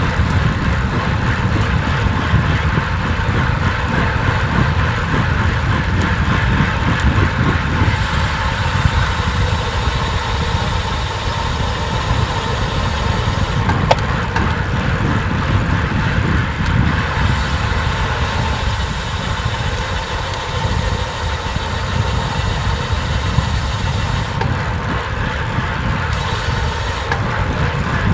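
Steady rushing rumble of travelling fast downhill, the wind and road noise of the descent. A high hiss switches on and off in sections, and there is a single sharp click about fourteen seconds in.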